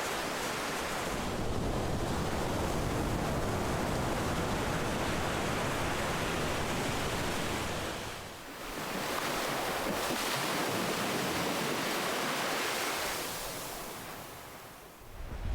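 Ocean waves washing in, a steady rush of surf that eases off twice, about eight seconds in and again near the end, each time before the next wave comes in.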